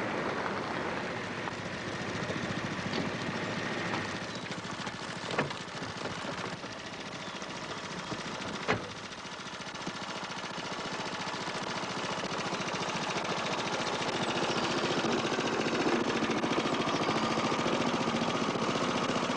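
An old car's engine idling with a fast, even beat, growing louder over the second half. Two sharp clicks stand out, about five and a half and nine seconds in.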